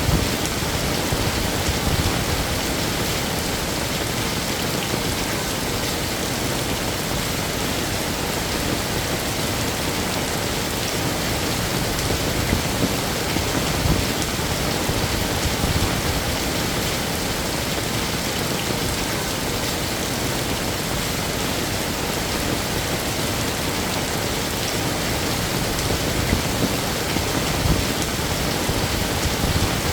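Heavy rain falling steadily, a dense even hiss of drops with occasional louder splashes.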